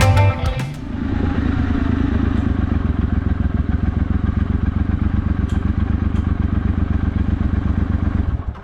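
Motorcycle engine running steadily with a fast, even pulse, then cut off abruptly.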